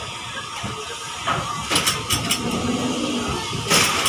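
Running noise inside a moving train carriage, with several sharp clacks and rattles a little over a second in and one louder clack near the end.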